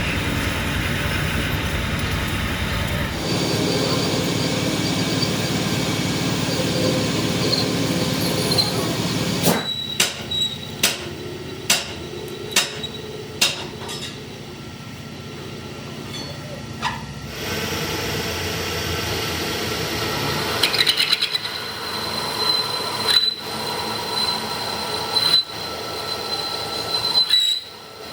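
Metal-shop machining noise: steady machine running with a thin high squeal. A run of sharp metal strikes about once a second comes in the middle.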